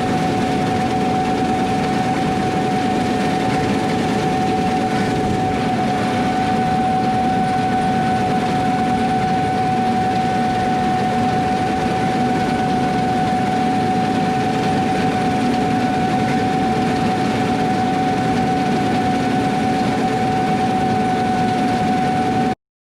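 Heavy harvest machinery running steadily under load, its engine and drives giving a constant drone with a high steady whine over it. The sound cuts out abruptly for a moment near the end.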